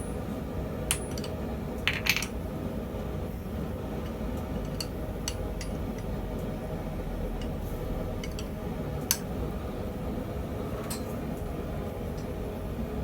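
Scattered light metallic clinks and taps of steel being handled at the forge, a few seconds apart and not in a hammering rhythm, over a steady low rushing background.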